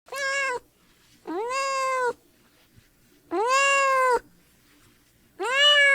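An animal calling four times: drawn-out pitched cries, each rising then sliding slightly down in pitch, with pauses of about a second between them.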